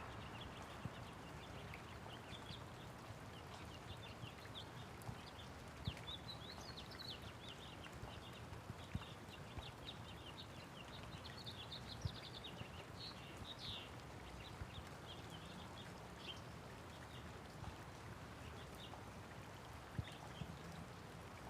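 Light rain falling steadily while small birds chirp in quick, high twitters throughout, busiest in the middle, with a few sharp taps of drops.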